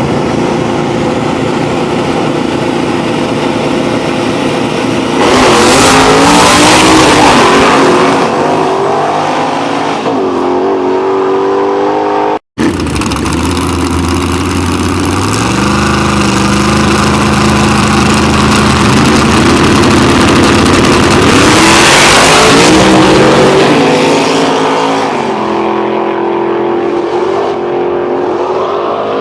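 Drag race car engines revving, then launching and accelerating hard down the strip, the engine pitch climbing in steps through the gears before fading. A sudden cut about twelve seconds in leads into a second run with the same build-up.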